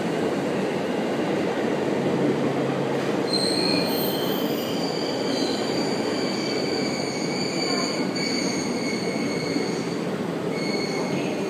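651-series electric limited express train rolling slowly past the platform as it comes into the station, with a steady rumble of wheels on rail. From about three seconds in, thin high squealing tones come and go on top of it as the train brakes.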